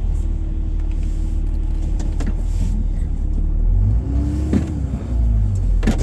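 Truck driving slowly, heard from inside the cab: a steady low engine and road rumble, with a brief rising-then-falling whine about four and a half seconds in and a few light clicks.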